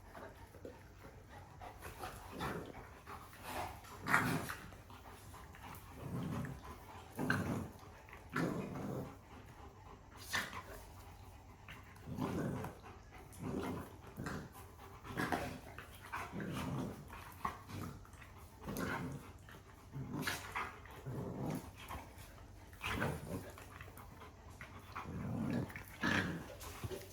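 Dogs growling in a repeated run of short growls, about one a second: an adult Cane Corso giving a firm correction to a two-month-old Pitbull puppy.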